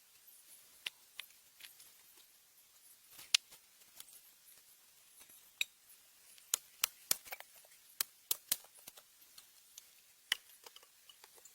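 A string of irregular sharp clicks and taps, a few at first and then thicker between about six and nine seconds in.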